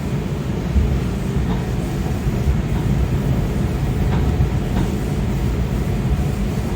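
Steady low rumble of a Kawasaki 7000-series Metrorail car running along the track, heard from inside the car, with a few light clicks.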